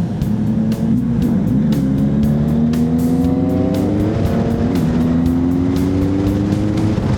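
Honda CB1100's inline-four engine pulling under acceleration: its pitch rises, drops sharply about four seconds in as it shifts up a gear, then rises again. Wind rushes on the microphone underneath.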